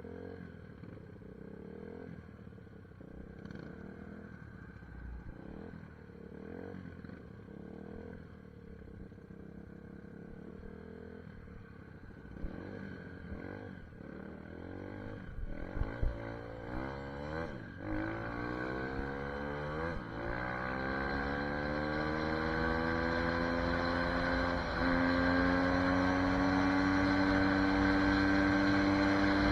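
SSR 150 dirt bike engine running. It is quiet and low at first, then revved up and down several times, then pulling with its pitch climbing steadily and growing louder toward the end.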